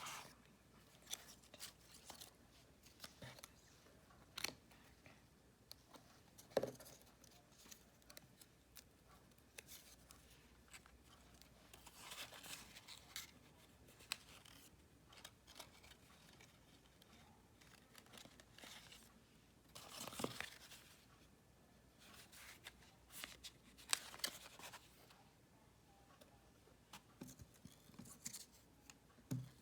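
Cardstock and paper being cut and handled: scattered faint clicks and snips with a few short rustles.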